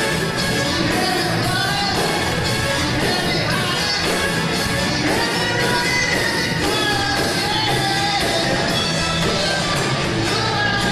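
Live band playing a song with sung vocals over a steady drum beat, with cymbal hits about twice a second.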